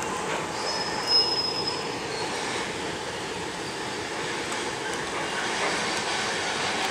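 Freight train rolling across an elevated bridge with a steady rumble of wheels on rail, and a high wheel squeal for about a second, starting about half a second in.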